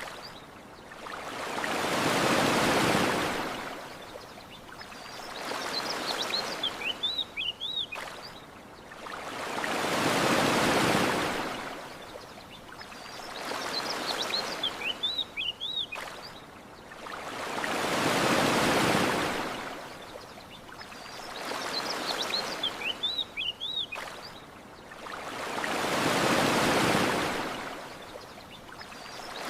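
Ocean waves washing onto a sandy shore, each swelling and fading about every eight seconds. Short bird chirps come in the lulls between the waves.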